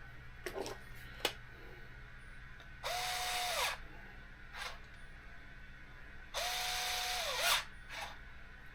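A small electric power driver runs twice, about a second each, a few seconds apart. Each run has a whine that spins up, holds steady and winds down, as it drives screws while a brushless motor and mount are fitted to an RC car chassis. A couple of light clicks from handling parts come before the first run.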